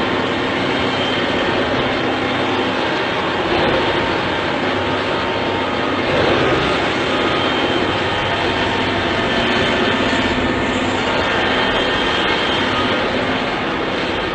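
An engine running steadily under a loud, even noise.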